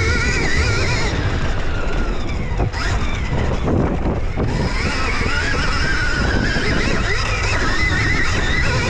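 Stark Varg electric dirt bike motor whining, its pitch rising and falling with the throttle, with heavy wind rumble on the microphone. The whine drops away for a moment a few seconds in, then comes back.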